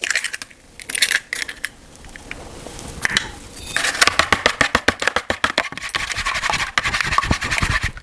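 An egg being beaten in a bowl: a few knocks and scrapes at first, then from about halfway a fast, steady run of clicks as the utensil strikes the bowl.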